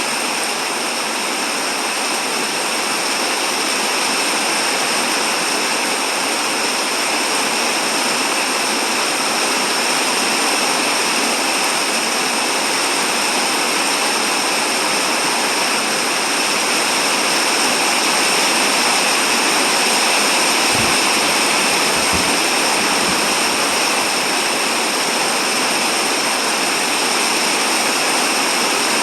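Steady rain falling, an even hiss with no letup, with a few faint low bumps about two-thirds of the way through.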